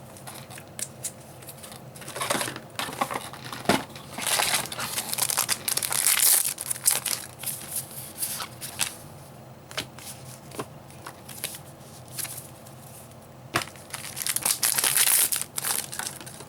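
Foil trading-card booster packs being crinkled and torn open, with the cards inside handled, in rustling bursts with a couple of quieter stretches between.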